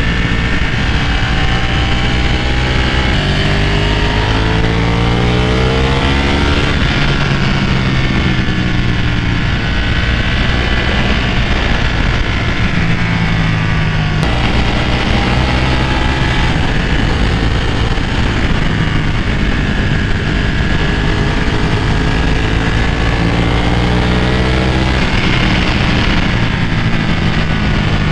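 Sport motorcycle engine under way, accelerating with the revs climbing and then dropping at each upshift several times, between stretches of steadier cruising. Wind rush runs underneath.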